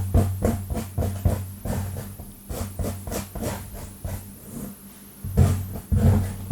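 Long fingernails scratching fast across a scalp close to the microphone: quick scratching strokes, several a second, over a low steady hum. The strokes ease off about four seconds in, then come back stronger near the end.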